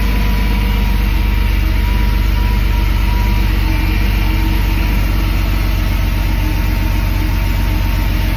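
1986 Porsche 911 Turbo's air-cooled flat-six idling steadily, warming up after a cold start, with a faint steady whine above the engine note.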